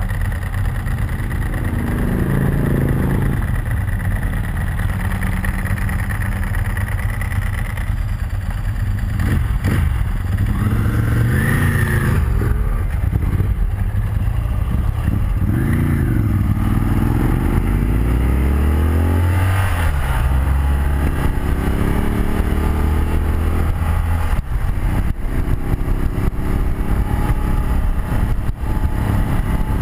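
BMW R100RS air-cooled flat-twin engine under way, revs climbing and falling again several times as it pulls through the gears, over a steady rush of wind.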